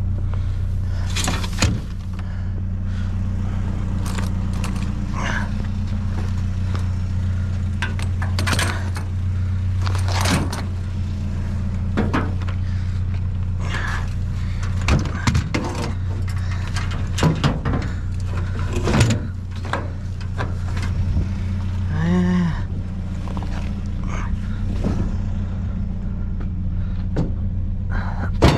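Steady low hum of an idling vehicle engine, with frequent knocks, clatters and scrapes of junk being handled and moved about in a trash pile.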